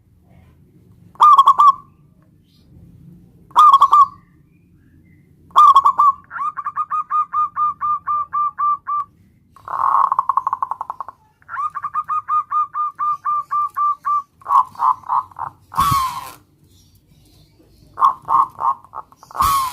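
Perkutut (zebra dove) cooing: three short separate coos, then long fast runs of clipped, staccato coo notes, with two louder, harsher bursts about two-thirds of the way through and at the end.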